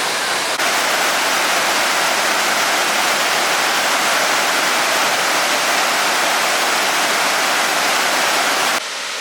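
Steady rush of falling water from a waterfall. It jumps louder about half a second in and drops suddenly to a softer rush near the end.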